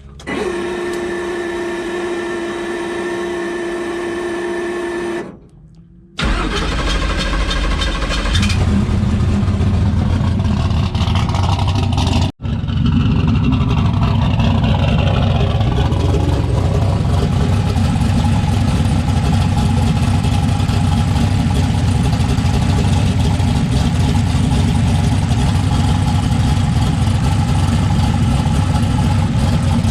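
Turbocharged Fox-body Mustang drag car's engine catching about six seconds in, after a steady whine, and settling into a loud, steady idle, with the revs rising and falling briefly early on. It is running on a replacement fuel injector that the owner says has cured a misfire: it fires right up and the idle is good.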